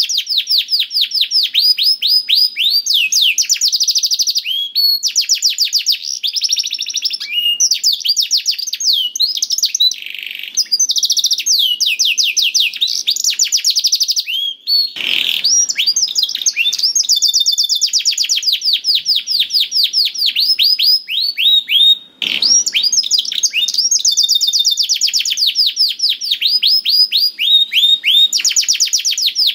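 Domestic canary singing almost without pause: long, fast trills of rapidly repeated high notes that slide downward, broken briefly twice.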